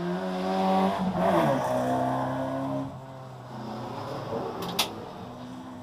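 Rallycross car engine revving up, its pitch dropping sharply after about a second, then holding a steady run before falling back to a lower, quieter running. A single sharp click comes near the end.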